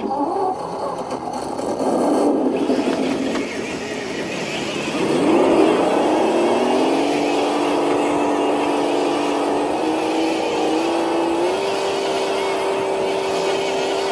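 Electric motor and gear drive of a Traxxas TRX4 RC truck whining under load while it drags a weighted sled. The first few seconds are a rough, noisy whir; about five seconds in a rising whine settles to a steady pitch, which steps higher a couple of seconds before the end.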